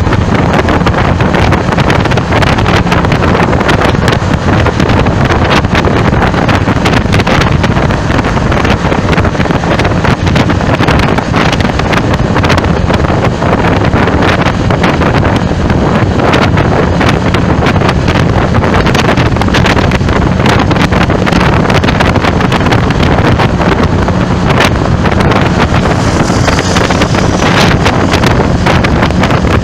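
Strong wind buffeting the microphone in a loud, continuous crackling rush, over a steady low rumble of road traffic.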